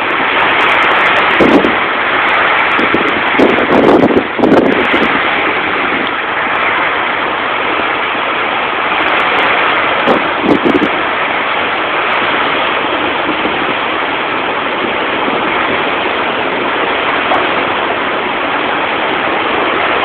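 Hurricane wind and rain: a loud, steady rushing noise, with stronger gusts swelling and buffeting the microphone about a second and a half in, around four seconds in, and again about ten seconds in.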